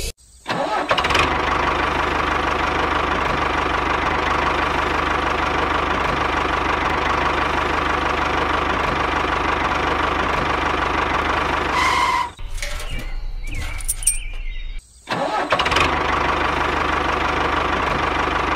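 Small engine of a DIY mini tractor running steadily, breaking off about twelve seconds in and starting again about three seconds later.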